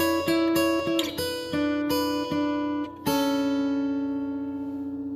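Acoustic guitar strumming chords, ending on a final strummed chord about three seconds in that rings out and slowly fades.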